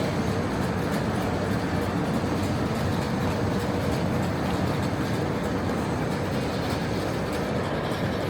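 Steady rumble of a train at a railway station platform, even throughout with no distinct events.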